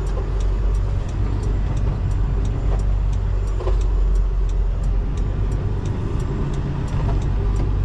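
Semi truck's diesel engine running steadily at low speed, heard from inside the cab. A faint, quick, regular ticking runs about three times a second over it.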